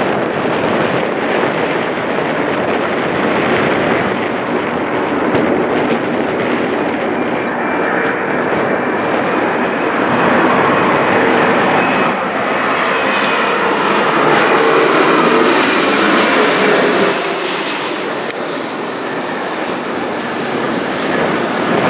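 CRJ900 regional jet's twin rear-mounted turbofans passing low overhead: a steady jet roar with an engine whine that builds to its loudest about two-thirds of the way through, then eases off.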